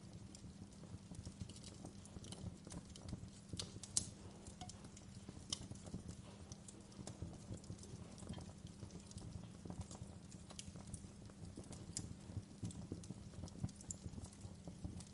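Wood fire crackling: a steady low rush of flames with frequent irregular pops and snaps. The sharpest snap comes about four seconds in.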